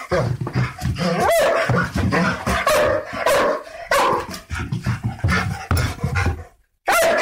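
Rottweiler barking over and over in quick succession, some barks rising in pitch, with a short pause near the end.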